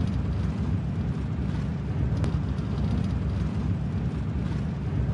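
Moving car's steady low rumble of road, engine and wind noise, heard from inside while driving.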